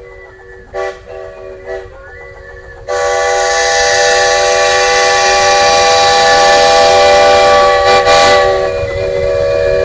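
Steam locomotive chime whistle: a chord of several notes sounding softly at first with two short toots, then a long, loud blast with steam hiss starting about three seconds in.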